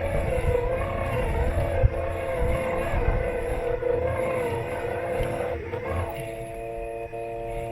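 Robot lawn mower's electric motor whining with a wavering pitch over a low rumble and knocks from the chassis as it drives over the grass. About six seconds in the rumble drops away and the whine settles into a steady tone.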